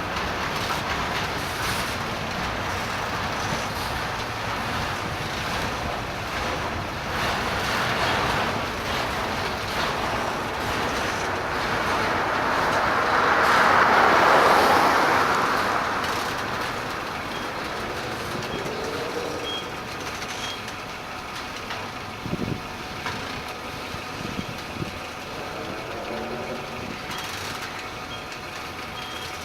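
Train rolling past, a steady rumble of wheels on rail that swells to its loudest about halfway through and then eases. Faint, evenly spaced high beeps come in near the end.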